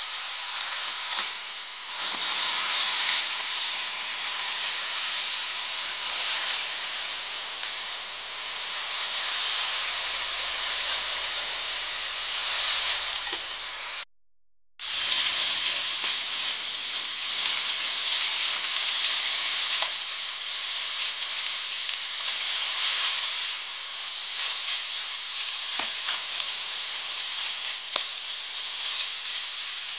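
Pork belly cubes sizzling steadily in hot fat in a wok as they fry and brown, with a few light clicks from the stirring fork. The sound cuts out for under a second about halfway through.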